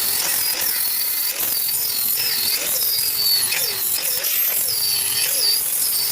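Electric arc welding building up a bead on a splitter-axe blade edge: a steady crackling hiss whose pitch wavers up and down about twice a second.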